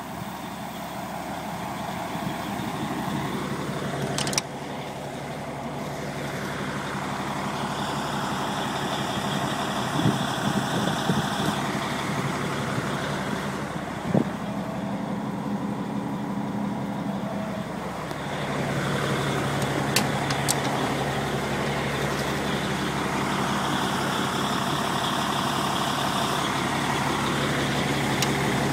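Fire engine's engine running steadily at idle, with a few short knocks and clicks.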